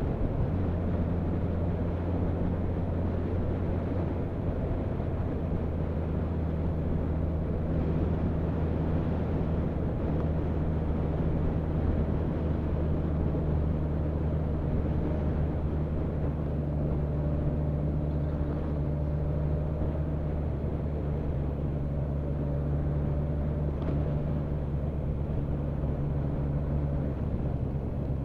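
Motorcycle engine running at steady road speed, with wind and road noise over it. The engine note steps down just after the start and climbs again near the end.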